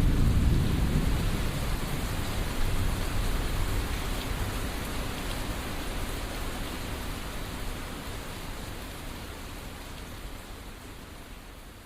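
Steady rain with the last of a thunder rumble dying away at the start, the whole storm fading out slowly.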